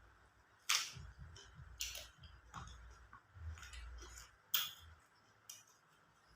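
A person eating close to the microphone: chewing, with a series of sharp, crisp clicks and smacks, three of them loudest, about a second in, two seconds in and near the five-second mark.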